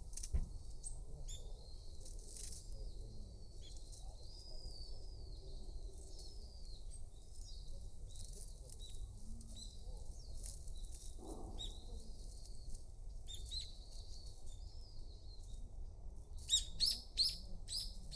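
Small birds chirping with scattered short arching calls, then a quick run of louder sharp calls near the end, over a steady low rumble.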